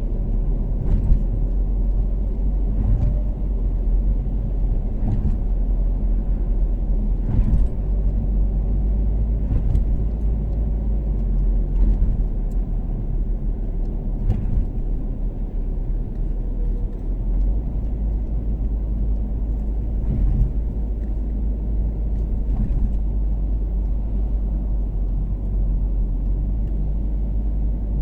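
Toyota Caldina's 3S-GTE turbocharged four-cylinder engine and road noise while cruising on an expressway: a steady low rumble, with brief knocks every couple of seconds.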